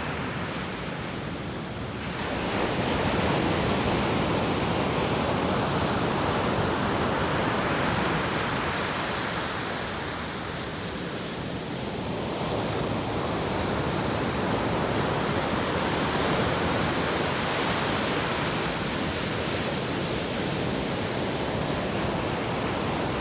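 Atlantic Ocean surf washing ashore, a steady roar of breaking waves that swells a couple of seconds in, eases off midway and builds again.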